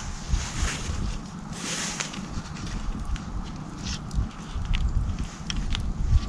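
Wind buffeting the microphone, a rough low rumble with gusty hiss that swells and fades, and a few small clicks and rustles mixed in.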